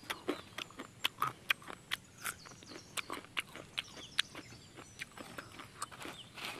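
Crunchy chewing of dry, uncooked instant noodles: irregular sharp crackles, about three a second.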